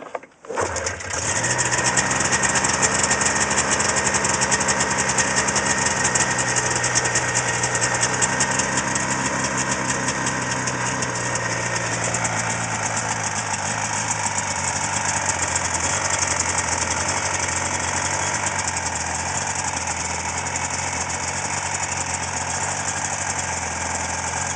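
Yamaha SRV snowmobile with a swapped-in Yamaha 440 SS two-stroke engine starting from cold: it catches about half a second in and then idles steadily.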